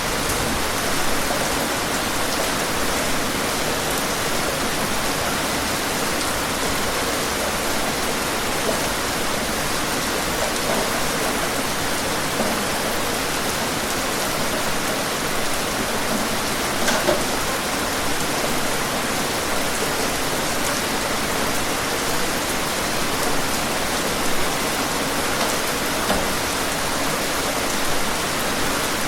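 Steady rainfall: a dense, even hiss of rain with scattered individual drops ticking on a surface.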